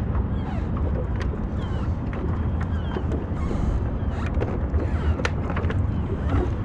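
Wind buffeting the microphone over a steady low rumble on a small boat, with scattered light clicks and a few brief high chirps.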